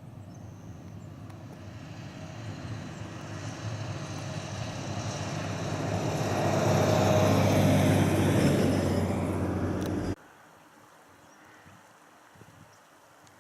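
A motor vehicle approaching, its engine and road noise growing steadily louder for about eight seconds, then cutting off suddenly about ten seconds in, leaving faint outdoor background.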